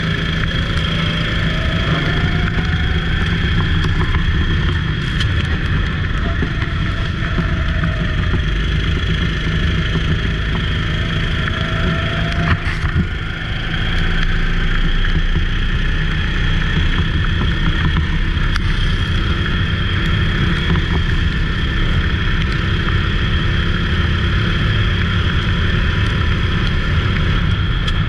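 Go-kart engine running steadily at racing speed, with a brief dip in level about halfway through.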